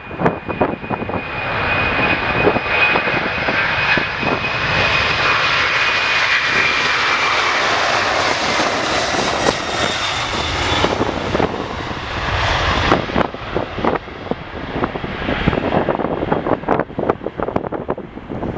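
Jet airliner's engines roaring as it passes, with a high whine that slowly falls in pitch; the roar fades about eleven seconds in and gusts of wind buffet the microphone.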